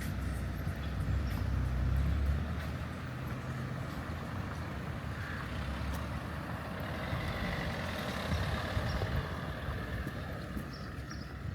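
A motor vehicle running past on the street, its low engine rumble loudest in the first two seconds, followed by a broader road noise that rises and fades.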